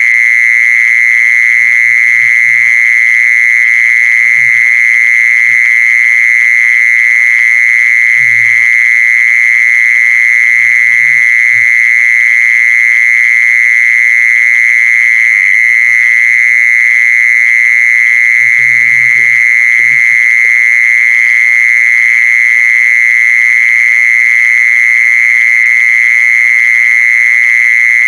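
Insect singing one continuous, high, steady trill that holds the same pitch without a break.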